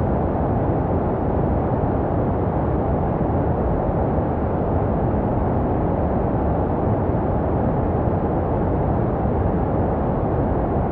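Steady low-pitched rushing noise, a muffled, bass-heavy noise track made for soothing babies to sleep, meant to sound like the womb.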